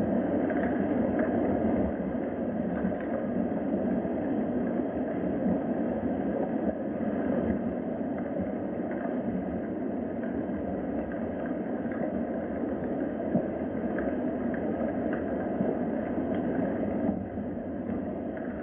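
Steady rain, an even hiss of noise with faint scattered ticks.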